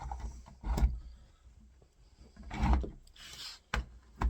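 A door handle being handled and set back in place on a door: several knocks and scrapes, with a sharp knock about a second in, a longer scrape about halfway through and a click near the end.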